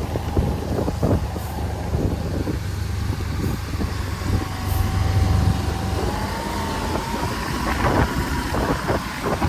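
Heavy road vehicle's diesel engine running with a steady low rumble. From about halfway a thin whine rises slowly in pitch.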